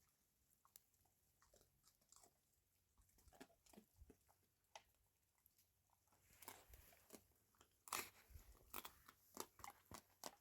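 Faint, irregular crunching and clicking, sparse at first and getting busier and louder about six seconds in.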